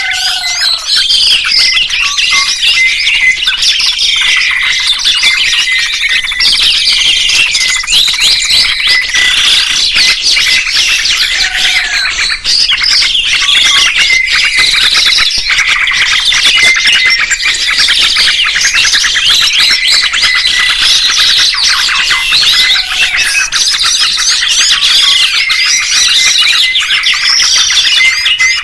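Songbirds singing without pause: a dense, loud run of rapid chirps, trills and warbled phrases.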